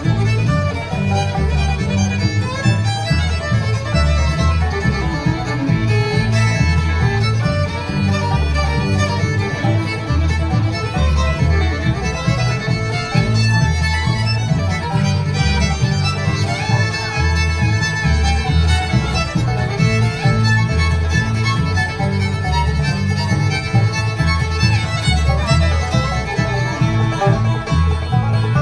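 Bluegrass band playing a fast instrumental fiddle tune: fiddle taking the lead over banjo and guitar, with a steady bass line underneath.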